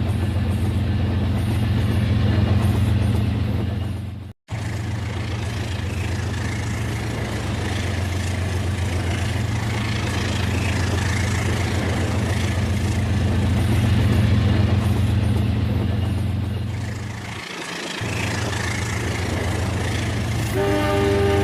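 RailKing model train running with a steady low rumble and a hum from the motor and wheels on the track, briefly cut off about four seconds in. Near the end a multi-tone train horn starts sounding and holds steady.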